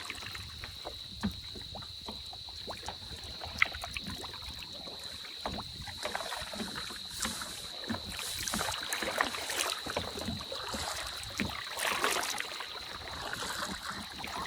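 Kayak paddling on calm lake water: paddle blades dipping and splashing with irregular drips and light knocks, over a low water-and-wind hiss.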